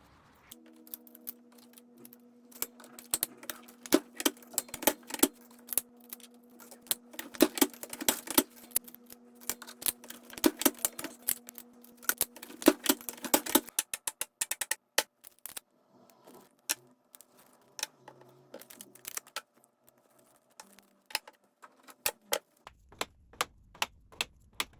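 Many irregular sharp clicks and taps of small hard objects. A steady hum runs underneath for the first half and stops suddenly about 14 seconds in.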